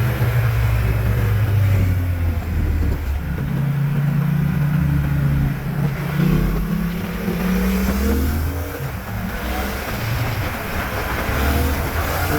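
Yamaha MT-07's parallel-twin engine through a LeoVince underbody exhaust, running at low revs, then revving up about six seconds in and easing off again a couple of seconds later.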